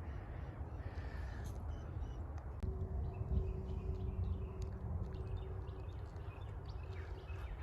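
Footsteps of a person walking outdoors, light crunching steps at an even pace over a low rumble. A faint steady hum comes in about two and a half seconds in and fades near the end.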